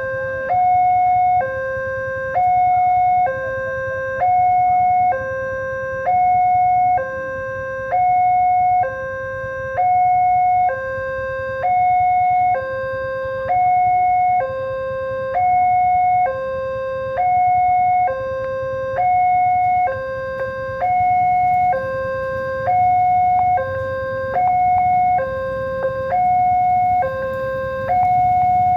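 Railway level-crossing warning alarm sounding: an electronic two-tone signal alternating evenly between a higher and a lower tone, each held about a second, the higher tone louder. It warns that a train is approaching the crossing.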